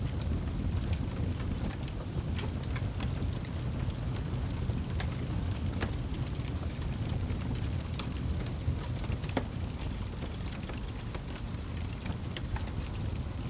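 Crackling fire with irregular sharp pops over a steady, low wash of rain.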